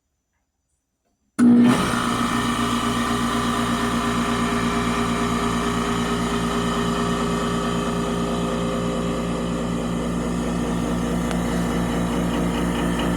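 The compressor of a 1965 Sears Coldspot 18,500 BTU window air conditioner kicking on about a second in, with a sharp starting surge, then running with a steady hum.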